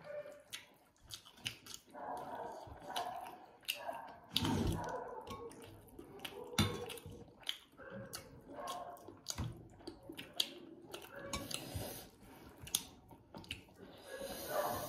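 Close-up chewing and mouth sounds of people eating rice and chicken curry by hand, with many short clicks and an occasional clink of a dish.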